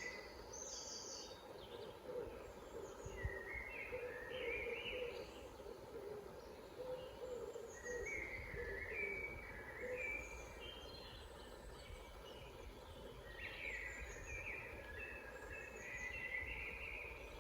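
Woodland birds singing: short, rapidly repeated song phrases from several birds, with lower notes in the first half, over a steady low background rumble.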